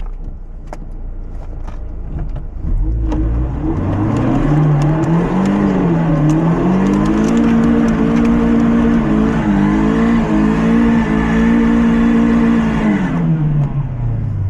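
A lifted Mazda MX-5's four-cylinder engine revs up about three seconds in and is held at high revs for about ten seconds, wavering a little, over a rushing noise of spinning tyres and stones. It drops back near the end: a hill restart that fails to get the car moving.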